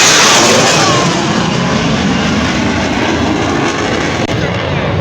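Jet aircraft roaring past low overhead, loudest at the start with its pitch falling as it moves away, then fading to a lower rumble.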